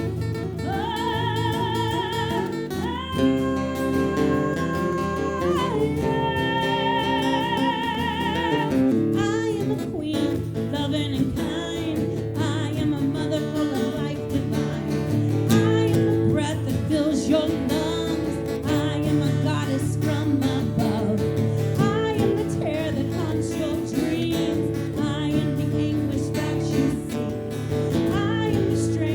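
Live Celtic folk music with guitar: a melody line held in long, wavering notes for the first several seconds, then an instrumental passage with plucked strings over a steady accompaniment.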